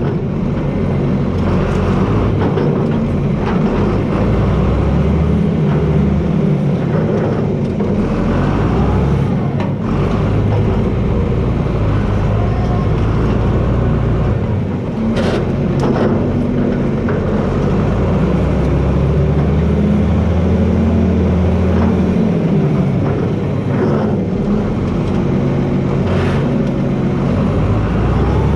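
John Deere 4320 tractor's six-cylinder diesel engine working under load while blading, its pitch sagging and recovering in places. A few sharp cracks stand out about halfway through and again near the end.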